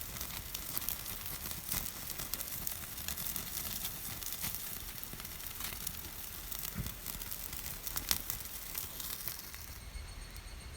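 Pork sizzling on a charcoal shichirin grill, its dripping fat crackling and spitting on the hot coals in a steady fine crackle with a few louder pops. The crackle drops away suddenly near the end.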